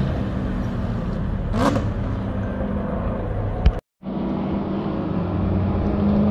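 Car engines running on a race track, heard at a distance as a steady drone. The sound drops out suddenly for a moment about four seconds in, then the drone carries on.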